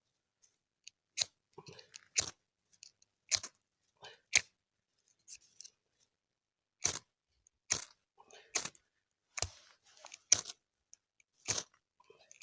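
Ferrocerium fire-steel rod struck hard with a scraper, striking sparks to light tinder: about a dozen short, sharp scrapes, roughly one a second.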